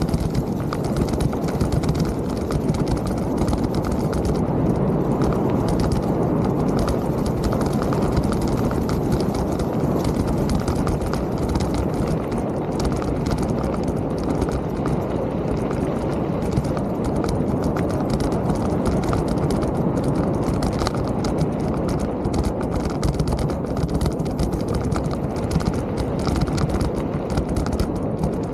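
Mountain bike riding over rough ground: a steady rumble with constant rapid clatter and knocks from the bike over the bumps.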